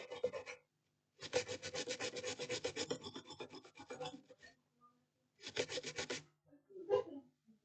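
Quick back-and-forth scrubbing on a laptop motherboard, cleaning off liquid-damage corrosion. It comes in faint bursts of rapid strokes: a short one at the start, a long one of about three seconds, another short one near the end and a last brief scrape.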